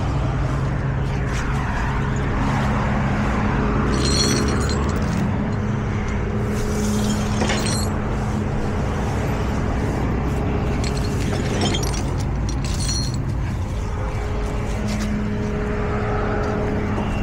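Tow truck on the move: a steady engine drone under road noise, with a few brief knocks and rattles.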